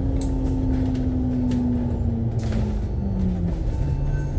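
Interior of a KMB Alexander Dennis Enviro500 MMC double-decker bus on the move: a steady low engine and road rumble with a drivetrain note that falls slowly as the bus slows, then drops a step about three and a half seconds in. A few light rattles can be heard from the cabin.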